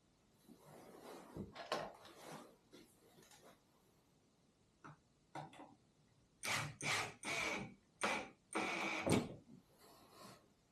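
A run of short, irregular knocks, clunks and rustles, like gear or objects being handled, sparse at first and louder and closer together in the second half.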